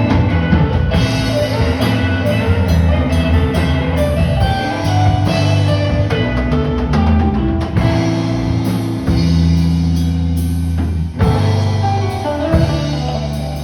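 Rock-style band music: guitar with a drum kit keeping a steady beat.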